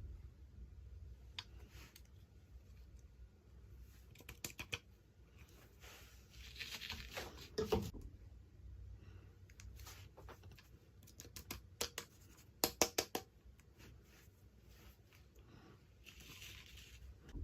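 Toy packaging being handled and opened: crinkling and tearing of wrapping, with scattered sharp clicks and a quick run of clicks in the second half.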